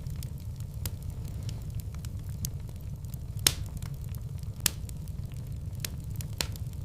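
Fireplace fire crackling: irregular sharp pops over a steady low rumble, with two louder pops near the middle.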